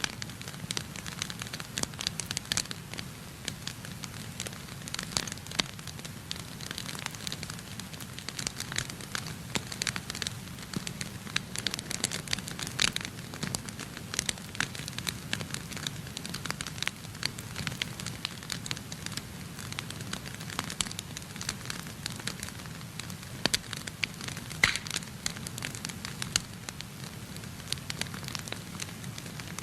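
Wood fire burning in a fireplace, with constant irregular crackles and pops over a steady low rumble.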